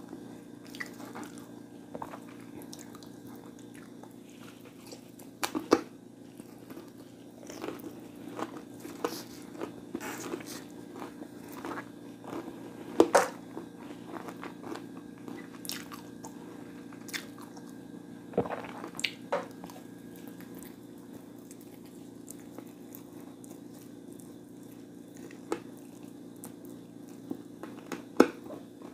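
A person chewing and biting food close to the microphone, with scattered sharp crunches over a steady low hum.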